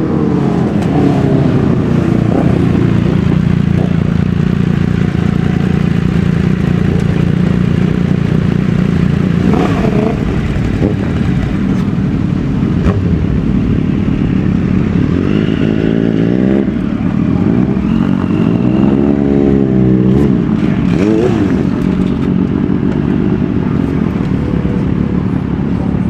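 Superbike engines running and revving. A steady low engine note runs under it, and the pitch rises and falls in several sweeps, mostly in the second half.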